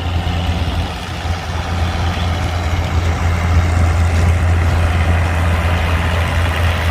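Heavy engine idling steadily with a deep, even hum, growing a little louder about three seconds in.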